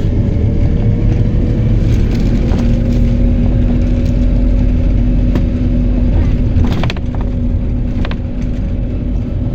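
PAZ-320405-04 Vector Next bus under way, heard from inside the cabin: low engine and road rumble with a steady whine that rises slowly in pitch. A second, lower hum joins about two and a half seconds in, and a few sharp clicks or rattles sound near the middle and later on.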